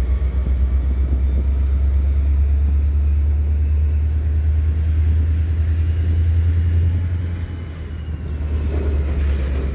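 Diesel locomotive running close by with a loud, steady, deep rumble. A thin, high whine slowly rises and then falls. The rumble eases briefly about eight seconds in.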